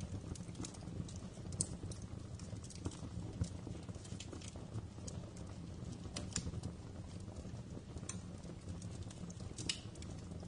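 Wood fire burning in a fireplace, crackling with irregular sharp pops and snaps over a low, steady rumble of the flames; a few pops stand out louder than the rest.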